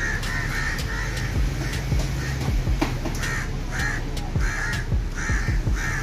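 A string of short bird calls, about two a second and irregularly spaced, over a steady low background rumble.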